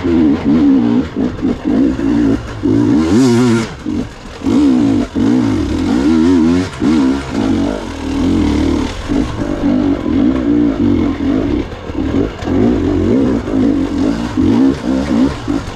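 Gas Gas EX 300 two-stroke dirt bike engine being ridden hard, its pitch rising and falling constantly with quick throttle blips and chops. A short burst of noise about three seconds in.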